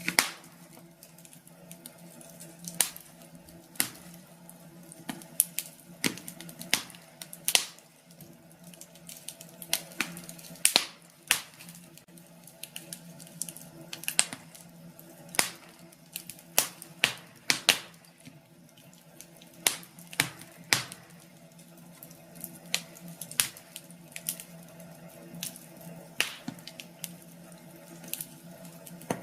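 Wood fire crackling in a fireplace: irregular sharp pops and snaps, a few each second, some louder than others, over a low steady hum.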